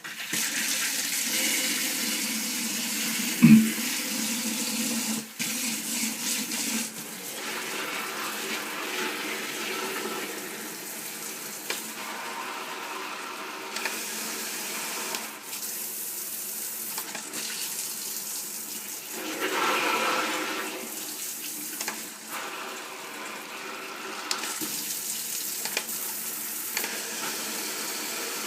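Water running steadily, with a single knock about three and a half seconds in.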